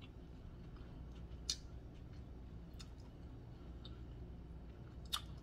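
Faint mouth clicks from closed-mouth chewing: a few scattered soft clicks, the clearest about a second and a half in and another shortly before the end, over a low room hum.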